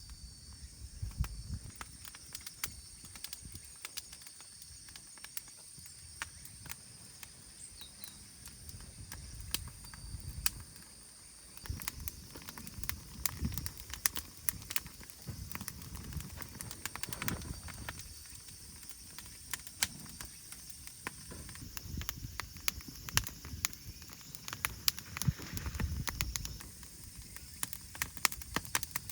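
Wood fire crackling and popping in a small steel fire pit, with scattered sharp snaps and a few low knocks.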